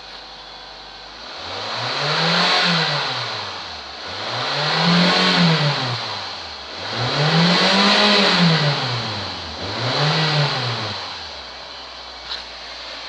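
Toyota 1AZ-FSE 2.0-litre inline-four engine idling, then revved up and let fall back four times in a row, the last rev shorter, before settling back to idle.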